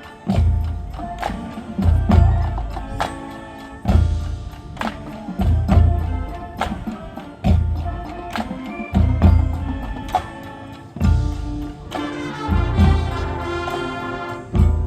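High school marching band playing: deep bass drum hits about every two seconds under fast, steady ticking percussion, with brass chords that grow fuller near the end.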